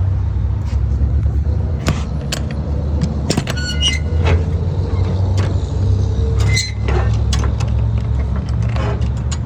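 Steady low motor-vehicle rumble with scattered clicks, and two short high tones about four and six and a half seconds in.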